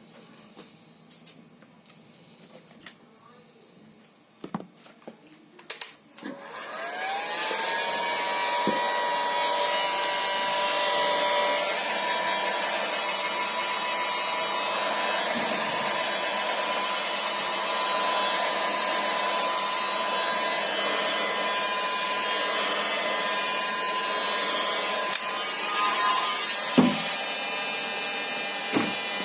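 A few light handling clicks and knocks, then about six seconds in an electric power tool spins up to a steady high whine and runs on evenly with a loud hiss.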